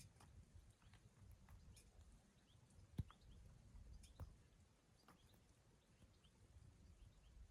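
Near silence: a faint low rumble with scattered soft ticks, and a single sharper knock about three seconds in.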